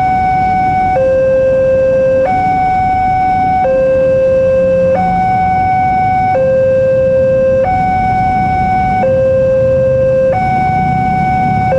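Railway level-crossing warning alarm sounding a steady two-tone hi-lo, each tone held for about a second and a third before switching, over a low rumble.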